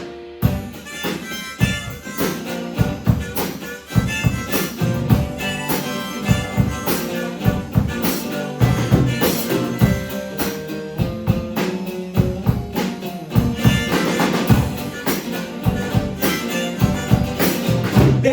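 A band plays an instrumental break between verses: a steady drum beat under a sustained lead melody, with no singing.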